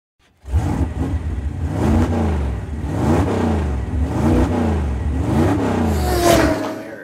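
Racing car engine being revved: the engine note rises and falls over a steady low rumble, about once a second, with a last sharper rev near the end before it dies away.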